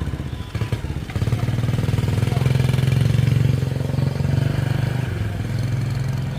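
Small motorbike engine running, its low pulsing note growing louder about a second in and easing off a little after the middle.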